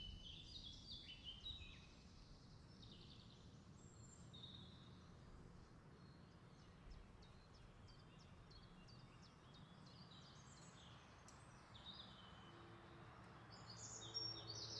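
Near silence, with faint birds chirping in the background that grow a little busier near the end.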